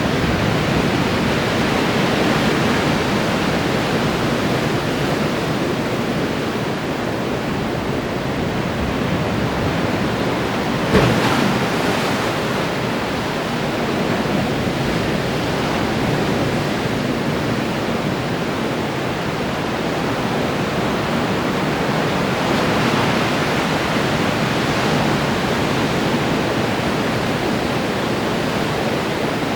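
Ocean surf breaking and washing against the shore in a steady rush, swelling and easing as sets of waves come in. About eleven seconds in there is a brief sharp thump, the loudest moment.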